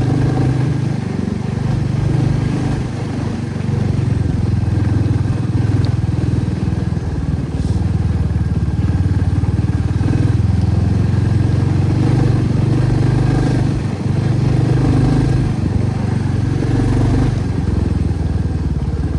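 Motorcycle engine running steadily at low road speed, its pitch rising and falling a little with the throttle.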